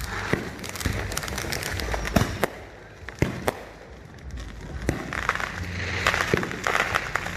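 Fireworks going off: a string of separate sharp bangs and pops, then a spell of dense crackling from about five seconds in.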